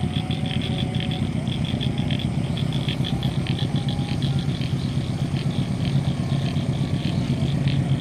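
Diesel engine of a CC 201 (GE U18C) diesel-electric locomotive running under load as it pulls away, a steady deep drone that swells slightly in the second half, with a rapid high ticking over it.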